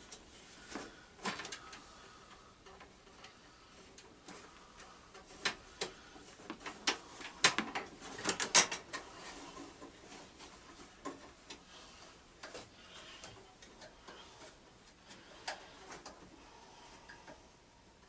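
Scattered clicks and light knocks of hands handling the lawn tractor's wiring and parts, with a quick cluster of sharper clicks about eight seconds in.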